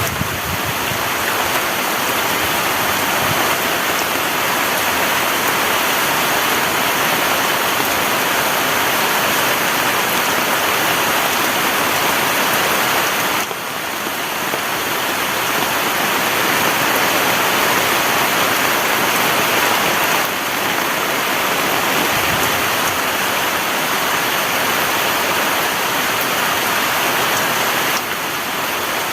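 Heavy rain pouring steadily, a loud dense hiss, with sudden small drops in level about 13 seconds in, about 20 seconds in and near the end.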